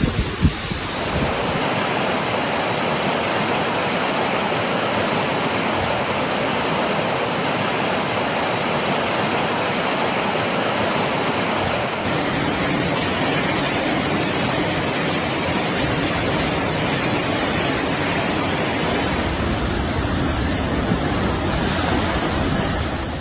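Fast-flowing floodwater rushing: a dense, steady water noise that changes character abruptly a couple of times.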